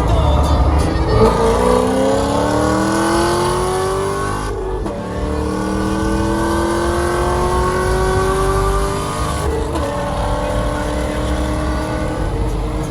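Car engine accelerating hard through the gears, its pitch climbing steadily, dropping at a gear change about four and a half seconds in, climbing again and dropping at a second shift near nine and a half seconds.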